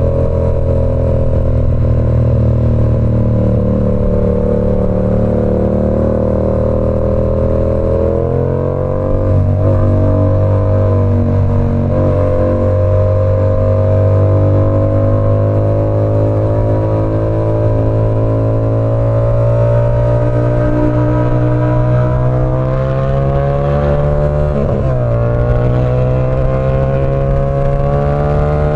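Yamaha R7's 689 cc parallel-twin engine breathing through an SC Project CR-T aftermarket exhaust while the bike is ridden, its note climbing slowly under throttle. The note breaks and shifts in pitch about nine seconds in and again near the end, as with gear changes.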